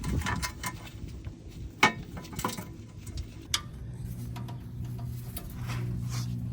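Light metallic clicks and taps from a transmission oil pan and its parts being handled and cleaned. A steady low machine hum sets in about four seconds in.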